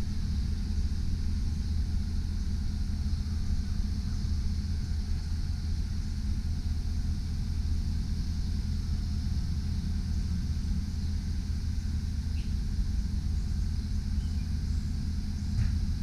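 GMC Sierra 3500 HD bucket truck's engine idling, a steady low rumble that does not change.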